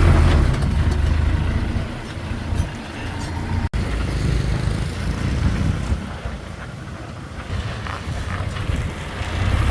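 Diesel engine of heavy earthmoving machinery running steadily, a low rumble that is louder for the first couple of seconds, with a momentary break in the sound a little over a third of the way through.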